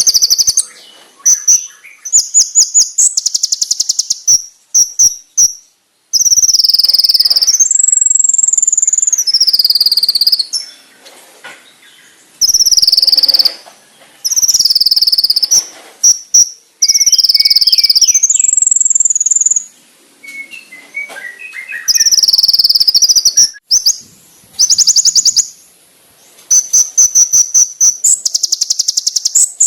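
Konin (kolibri ninja) songbird singing loud, very high-pitched, rapid trills and sharp 'shot' phrases. The phrases come in bursts of a second or more with short pauses, some gliding up and down in pitch.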